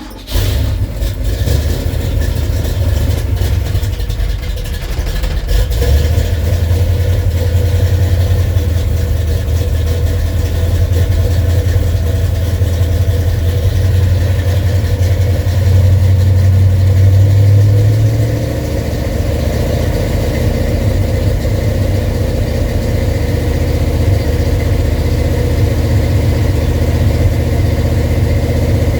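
Ford FE 390 V8 with a Comp Cams 279 cam, breathing through Headman headers and Summit Race Series (Flowmaster-style) mufflers, starts right at the beginning and runs at a cold fast idle. The idle climbs a little several seconds in, is highest past the middle, and settles back down about two-thirds of the way through.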